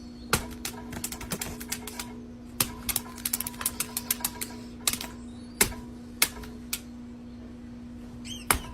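Irregular sharp clicks and taps, some in quick runs, over a steady hum.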